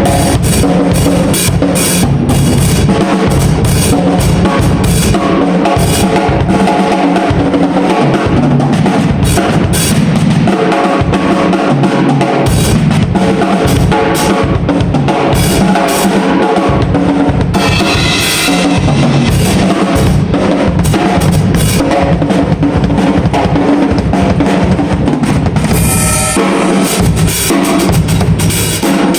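Drum kit played hard and continuously: rapid bass drum and snare hits with cymbals, in a drum sound check. Pitched notes run under the drumming, and a cymbal crash stands out near the end.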